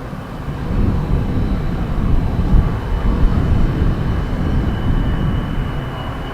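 KC-135 tanker's jet engines on landing, a loud low rumble with a thin steady high whine over it.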